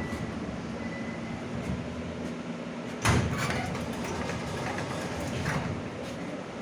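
Passenger doors of a standing 81-717 metro car opening at the station with a sudden thump and rattle about three seconds in, over the steady hum of the car, with a lighter knock a couple of seconds later.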